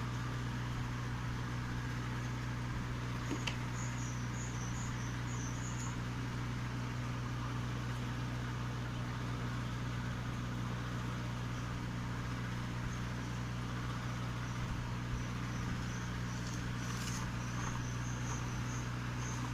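A steady low hum, likely from a small motor or fan, with faint high chirping of insects in two stretches.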